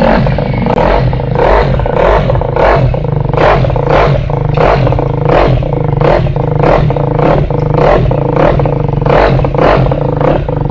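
Engine running after being started, with a steady low drone and a regular clattering beat of about one and a half pulses a second.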